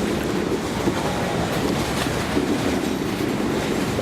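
MLW/Alco six-axle diesel locomotives working as the train pulls forward: a steady, heavy engine drone with occasional wheel clicks over the rails.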